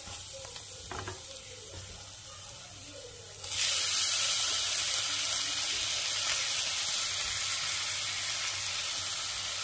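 Spice paste frying in oil in a kadai, sizzling quietly under a spatula. About a third of the way in, peeled boiled eggplant goes into the hot oil and the sizzling suddenly jumps much louder and stays loud.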